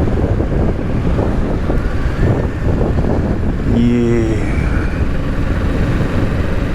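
Kawasaki Z650 parallel-twin engine running steadily under way, mixed with heavy wind rush on the rider's microphone.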